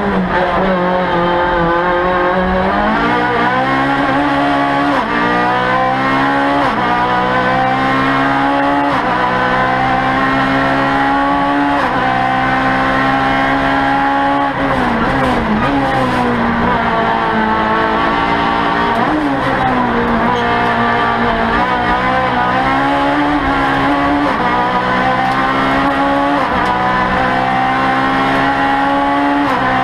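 Citroën Saxo F2000 race car's four-cylinder engine heard from inside the cabin, revving hard and climbing through the gears with several quick upshifts. Twice the engine note falls away as the car slows for a bend, then it climbs through the gears again.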